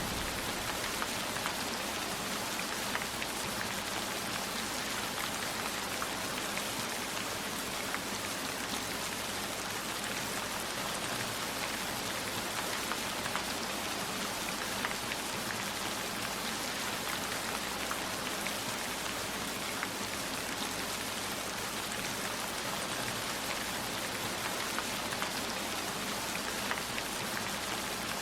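Steady heavy rain falling, even and unbroken, with scattered faint drop ticks.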